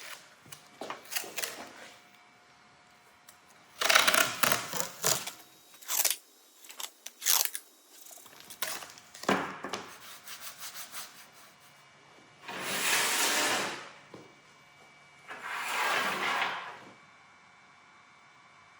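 A steel knife blade being scraped and rubbed by hand against an abrasive during sharpening or finishing. Short, irregular scrapes and knocks come first, then two long, even strokes of about a second each.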